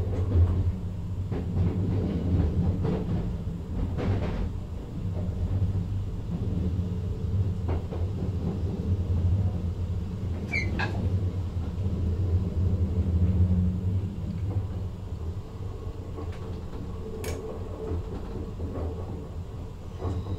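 Driver's-cab interior of a VIRM double-deck electric train on the move: a steady low rumble with a hum from the drive. There are a few clicks and knocks, with a brief squeak about halfway through and a sharp click near the end.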